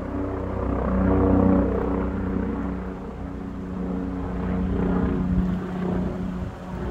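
A steady engine drone, its pitch wavering slightly, over a low rumble.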